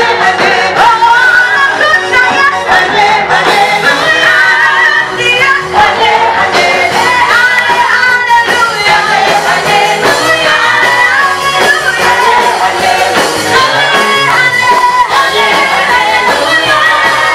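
A gospel praise song sung by a vocal group, the singing loud and continuous throughout.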